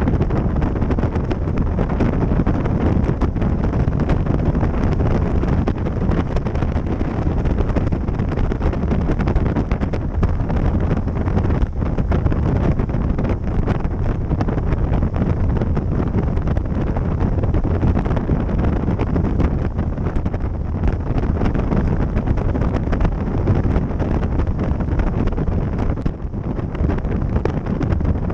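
Steady wind buffeting the microphone of a moving bike, heaviest in the low rumble.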